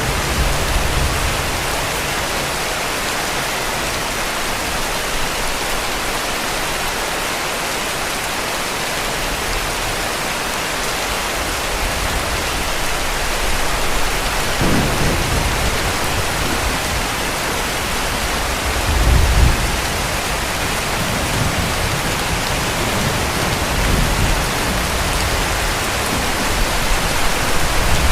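Steady heavy rainfall with distant thunder rumbling low several times in the second half, the loudest roll about two-thirds of the way through.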